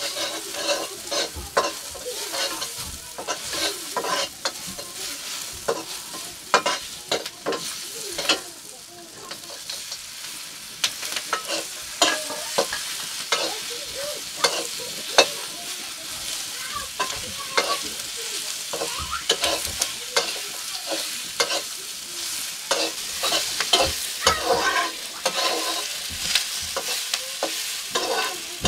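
Chicken and potatoes sizzling as they fry in a metal wok, with a long metal spatula repeatedly scraping and knocking against the pan as they are stirred. The sizzle drops back briefly about a third of the way in.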